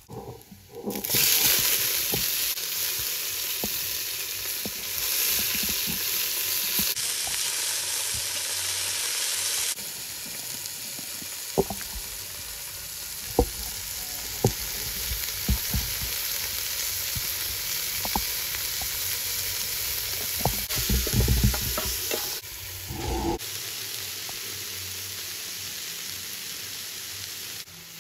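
Leafy greens sizzling as they fry in an aluminium pot, stirred with a metal spoon. The steady frying hiss starts about a second in, with a few sharp clicks along the way.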